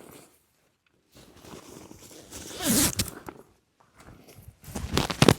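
A zipper being pulled, in two strokes: one about two and a half seconds in and a louder one near the end.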